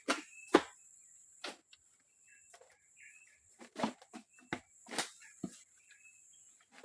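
Irregular knocks and clicks of wood being handled during shelter building, about eight in all, with short high bird chirps between them and a steady thin insect drone.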